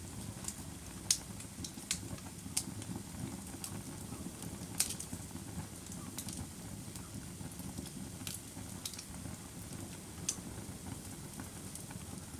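Wood fire burning, with irregular sharp crackles and pops over a steady low rush of flames.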